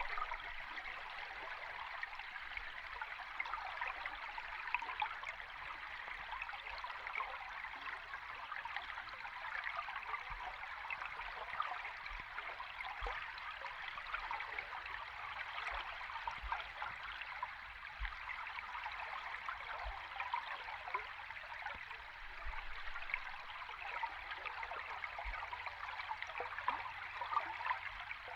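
Flowing stream water heard from underwater: a steady rushing hiss thick with fine bubbling crackles, with an occasional soft low bump.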